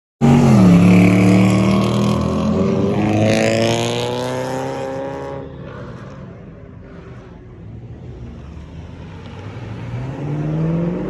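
A car accelerating hard, engine pitch climbing, then fading away about halfway through. Near the end another car engine revs up.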